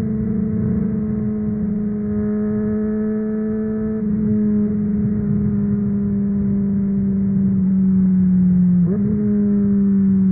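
Honda CBR600RR's inline-four engine through a MIVV aftermarket exhaust, running at steady high revs while the pitch sinks slowly as the bike loses speed, with a quick dip and recovery in pitch about nine seconds in, like a gear change. A rumble of wind and road noise runs underneath.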